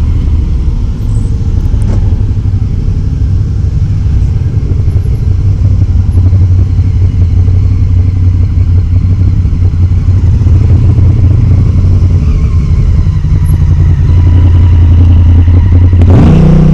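Motorcycle engine running steadily on the road, a deep, even engine note that grows somewhat louder over the last few seconds.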